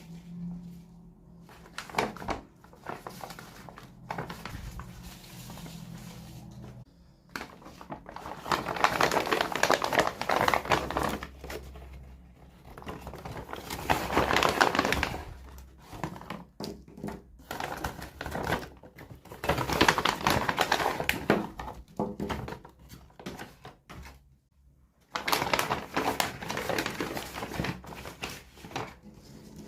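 Plastic packaging crinkling, with small plastic pieces clicking and tapping, as miniature toys are unboxed by hand. The sound comes in four bursts of a few seconds each, with quieter handling between them.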